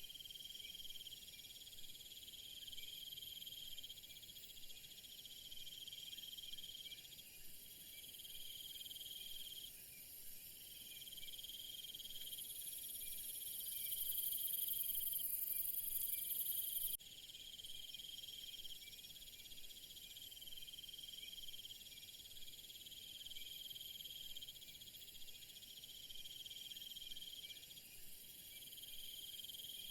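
Insect chorus: several high, steady trills overlapping and switching in and out. About halfway through, a louder, very high-pitched buzz swells and then cuts off suddenly a few seconds later.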